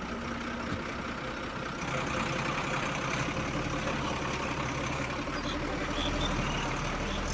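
Engine running steadily, a low hum under an even noise that grows slightly louder about two seconds in.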